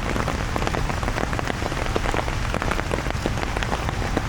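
Steady rain falling on an umbrella overhead, with many separate drop hits sounding close.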